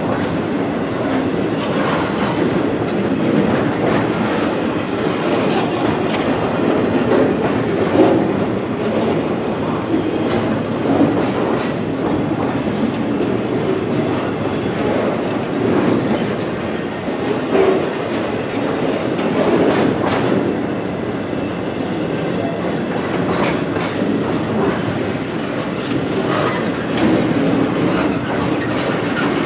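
Pan Am freight train POAY's double-stack intermodal container cars rolling past at speed: a steady, loud rumble and clatter of steel wheels on the rails, with a few brief louder knocks as the cars go by.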